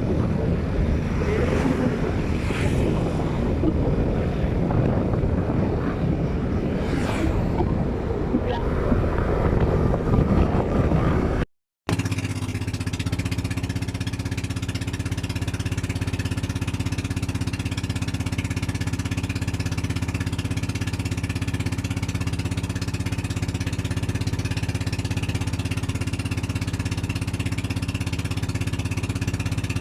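Motor vehicle engine running, heard on board: first a rough rumble with wind noise, then, after a cut, a steady, even engine drone.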